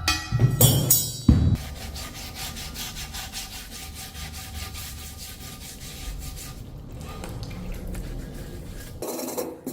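A few sharp knocks, then a part being rubbed down by hand in fast, even abrasive strokes for several seconds.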